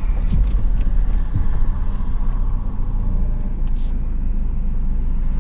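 Truck driving slowly over a rough road: a steady low rumble, with a few short knocks and rattles in the first two seconds.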